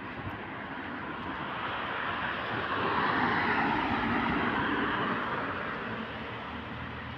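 Rushing noise of a passing vehicle, swelling slowly to a peak about three seconds in and fading again.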